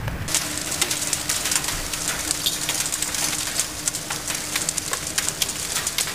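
Hailstones the size of frozen peas and marbles pelting hard surfaces in a dense, irregular patter of sharp ticks and clicks.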